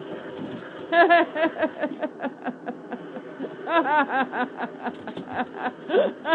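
A man laughing in two fits of quick, repeated pulses, one about a second in and a louder one near four seconds.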